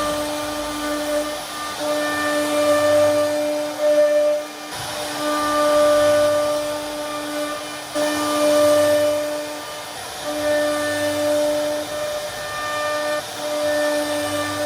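CNC router spindle running with a steady high whine while its bit carves into wood, the cutting noise swelling and easing every couple of seconds as the bit moves through the pattern.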